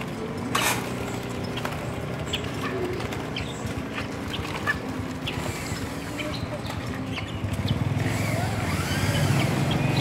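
Outdoor market ambience: a motor vehicle engine running, growing louder near the end as it comes closer, with scattered short chirps of caged small birds and a sharp click about half a second in.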